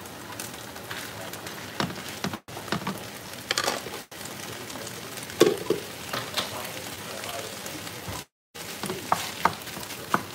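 Raw sliced beef sizzling as it is stirred into curry paste frying in a nonstick pan, with a wooden spatula scraping and knocking against the pan. The sound cuts out briefly three times.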